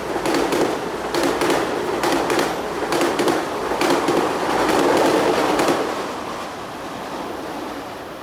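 Metro-North Kawasaki M8 electric multiple-unit train rolling past on the rails, its wheels clacking sharply over rail joints several times a second. The clacking eases and fades after about six seconds as the train moves away.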